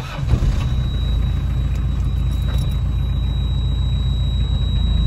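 Maruti Gypsy's four-cylinder petrol engine, heard from inside the cabin, comes up sharply in level just after the start and then runs on with a steady low drone.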